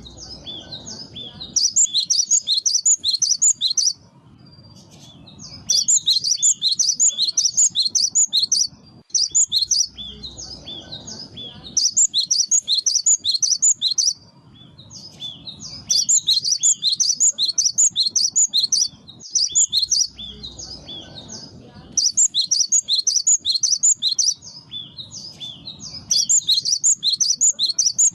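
Gelatik batu (cinereous tit) singing: bouts of quick, high repeated notes, each lasting a couple of seconds, broken by short pauses, as used for a lure recording.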